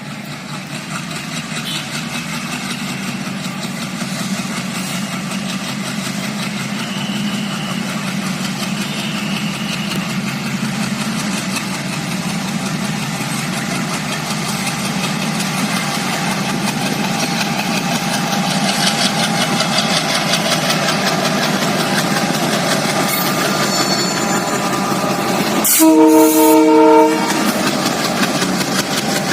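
WDM-3A diesel-electric locomotive's ALCO engine running up as the throttle is notched up for departure, growing steadily louder. Near the end the locomotive's horn sounds one blast of about a second, the loudest thing heard.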